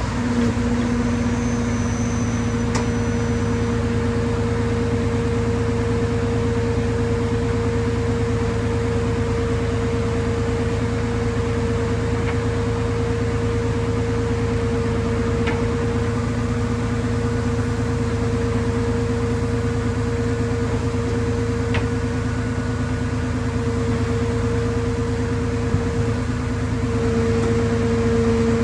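A machine running with a steady droning hum that holds one pitch, growing slightly louder near the end, with a few faint clicks.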